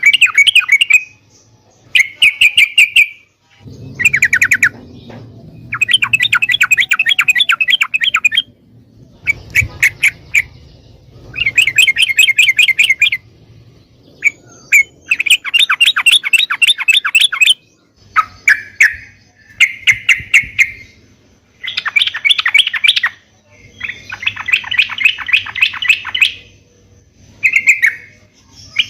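Yellow-vented bulbul (trucukan) singing in loud, rapid chattering phrases. Each phrase runs about one to three seconds, with short pauses between.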